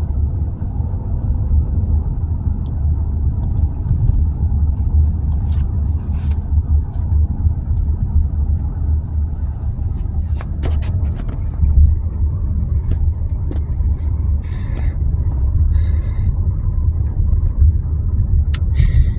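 Road and engine noise inside a moving car's cabin: a steady low rumble with a few scattered clicks.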